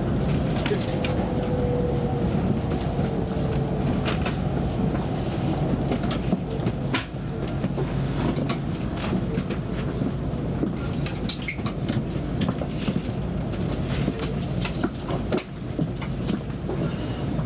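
Interior running noise of a Tokaido Shinkansen car: a steady low rumble and hum, with scattered short clicks and knocks throughout. In the first few seconds a faint whine falls slightly in pitch.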